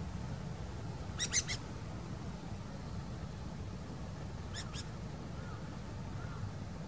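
A wild bird giving short, sharp high calls: three quick notes about a second in and two more about three seconds later, over a steady low rumble.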